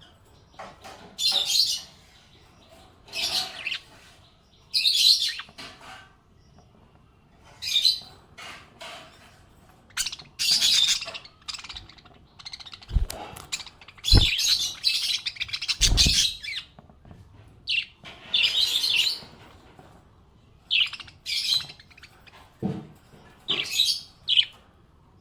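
Small pet parrots chirping and twittering in short bursts every second or two, with a few dull thuds about halfway through.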